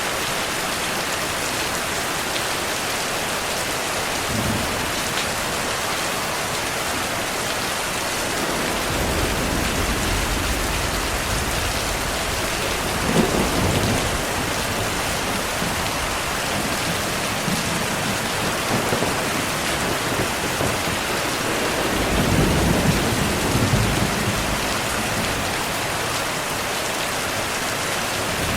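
Steady rain with low rolls of thunder, the strongest rumbles about 13 seconds in and again around 22 to 24 seconds in.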